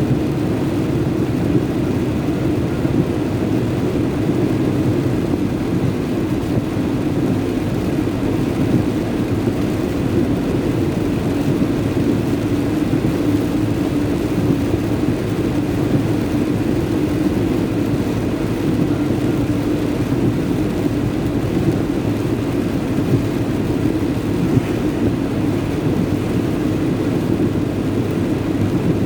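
Steady drone of a vehicle's engine with tyre and road noise, heard from inside the vehicle as it drives on a wet highway in rain.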